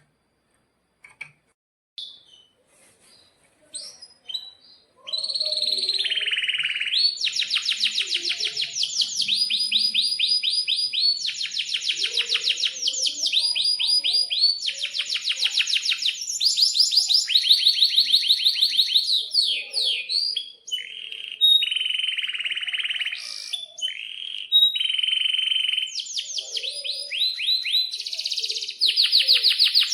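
Domestic canary singing. A few scattered chirps come first. From about five seconds in it sings without a break: long rolling trills, each a fast run of the same note held for a second or two before switching to a new trill at another pitch.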